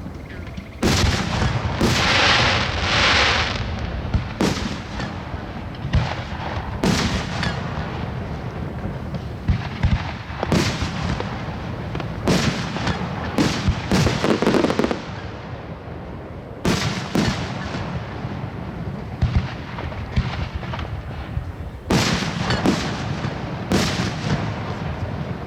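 Fireworks show: aerial shells bursting with sharp bangs, many in quick succession. A crackling hiss about a second in and a dense run of bangs about halfway through.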